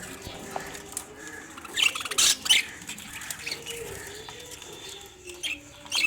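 Caged budgerigars chirping and chattering, with several sharp squawks about two seconds in and again near the end.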